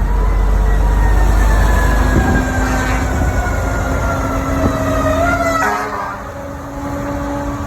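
Steady low traffic rumble, with an emergency vehicle's siren sliding slowly down in pitch. The siren wavers briefly about five and a half seconds in, and the rumble eases near the end.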